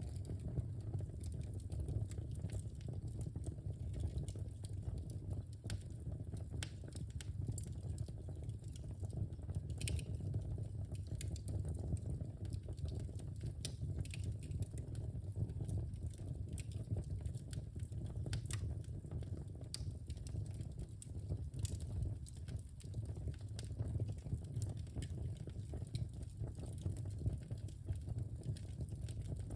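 Wood fire burning in a fireplace, crackling with irregular sharp pops and snaps over a steady low hiss of the flames.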